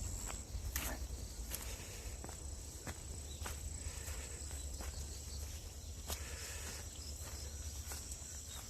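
Crickets keeping up a steady high, thin trill, with scattered soft footsteps and clicks.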